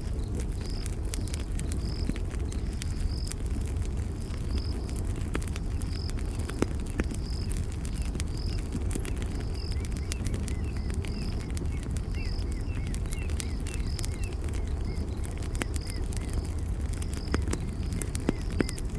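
Campfire burning, with frequent sharp crackles and pops over a steady low rumble. A high chirp repeats evenly about one and a half times a second throughout, and faint twittering chirps come in for a few seconds in the middle.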